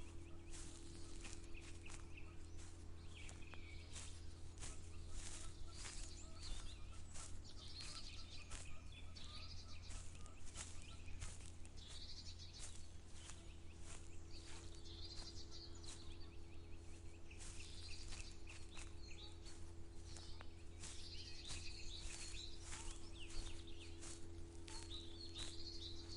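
Footsteps walking at an even pace, about two steps a second, while birds chirp and sing around, over a steady low hum.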